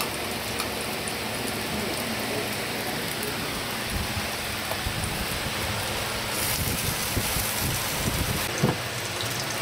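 Beef, onion and tomato sizzling steadily as they fry in a small steel pan. A steel ladle stirs through them and knocks once against the pan near the end.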